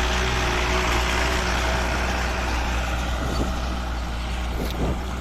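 Diesel farm tractor engine running steadily under load while pulling a four-disc plough, with a strong low drone.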